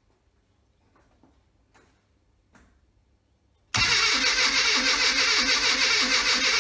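Classic Mini A-Series engine being cranked over on the starter motor with the coil disconnected, so it turns without firing, to build up oil pressure. A few faint clicks, then the cranking starts suddenly about four seconds in and runs steadily with an even, rapid pulse.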